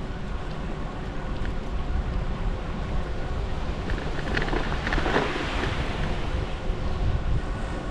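Wind buffeting the microphone of a bicycle-mounted camera while riding, over a steady low rumble, with a rushing hiss that swells about halfway through and fades again.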